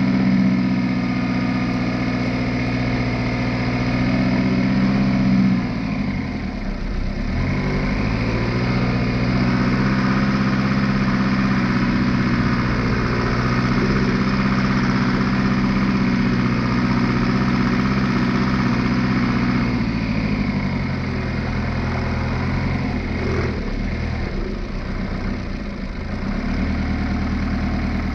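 Nissan Patrol engine running as the 4x4 crawls along a dirt track. The engine note dips and recovers about six seconds in and several times more near the end, as the revs change.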